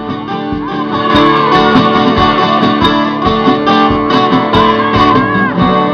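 Music: a strummed guitar playing a song accompaniment with a steady, repeated strumming rhythm.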